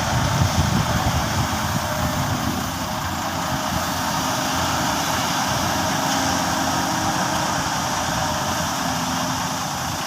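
Excavator's diesel engine running steadily while it works, with uneven low rumbling that is strongest in the first couple of seconds.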